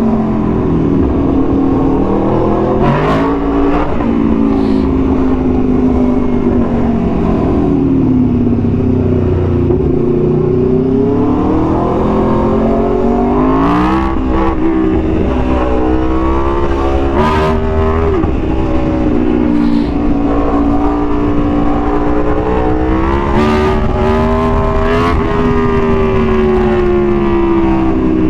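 Aprilia Tuono V4 1100's V4 engine through an SC-Project exhaust, revving up and down as the bike accelerates and shifts, with several brief sharp cracks along the way.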